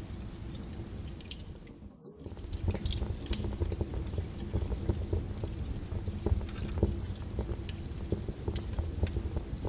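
Wood fire burning in a fireplace: a steady low rumble of flames with irregular crackles and pops from the burning logs. The sound drops out briefly about two seconds in.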